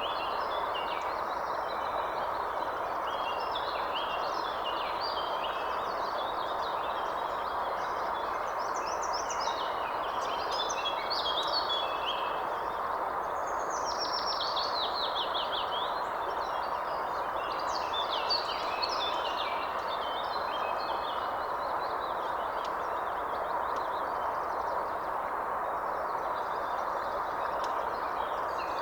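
Several birds calling and singing over a steady background hiss, with short chirps throughout and a quick run of falling notes about halfway through.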